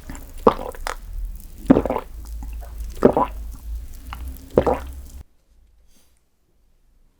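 Close-miked eating sounds: wet chewing and squishing of a soft dessert, with four louder moist smacks about a second and a half apart. The sound stops abruptly about five seconds in.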